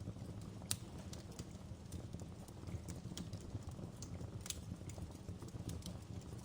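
Wood fire crackling in a fireplace: a low, steady rumble of burning with scattered sharp pops and crackles, two louder pops just under a second in and about two-thirds of the way through.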